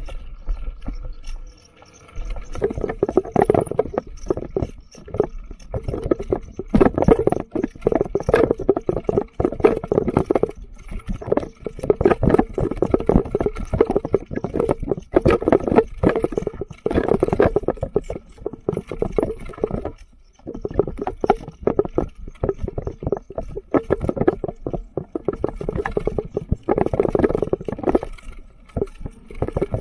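Footsteps and rustling of someone walking through forest undergrowth, a dense, irregular crunching and brushing that pauses briefly about two seconds in and again near twenty seconds.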